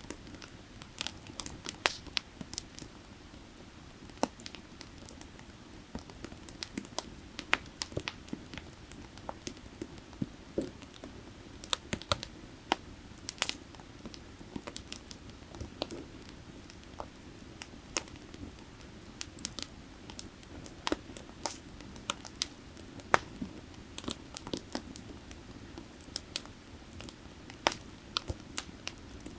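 Burning firewood crackling, with irregular sharp pops and snaps, some louder than others. Behind it, the low steady rush of a creek.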